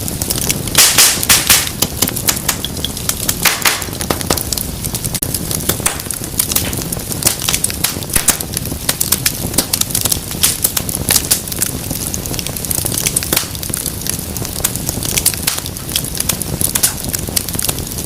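Wood fire crackling and popping steadily over a low rumble of flame, with a burst of louder hissing crackles about a second in and another about three and a half seconds in.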